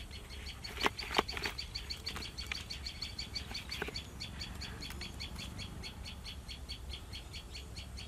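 A bird calling in a rapid, even series of short high chirps, about five a second. A couple of sharp knocks stand out about a second in.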